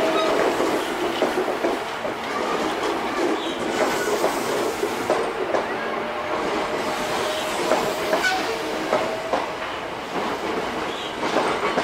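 Hankyu 8300 series electric train gathering speed past the platform: wheels clacking over rail joints in an uneven run of clicks over steady running noise. A whine from its Toyo Denki VVVF traction drive is heard near the start and faintly again midway.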